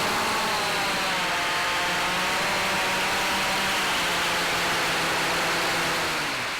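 Cheerson CX-20 quadcopter's electric motors and propellers whining in flight, the pitch wavering slowly up and down under a heavy rush of wind noise. The sound fades away right at the end.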